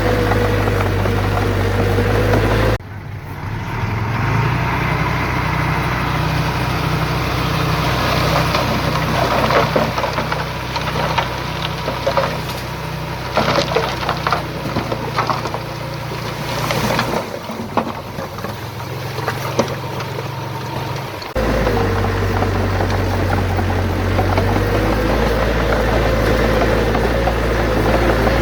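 Heavy diesel earthmoving machinery running steadily under load. Through the middle section there are repeated clanks and knocks of stone and steel. The sound changes abruptly about three seconds in and again about seven seconds before the end.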